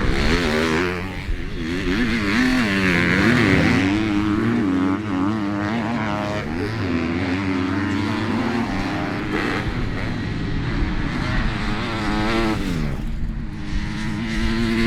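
Several motocross bikes racing, their engines revving up and down as the riders work the throttle and shift through the gears, so the pitch keeps rising and falling.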